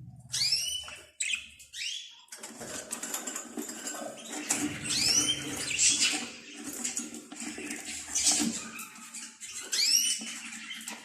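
Budgerigars chirping and chattering: many short, arched, high chirps one after another, with a low steady hum underneath from about two seconds in.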